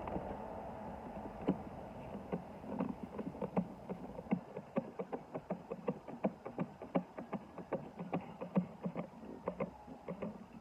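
Light clicks and knocks of hands working on a car's plastic air filter housing: a string of irregular taps, several a second, getting denser from about four seconds in.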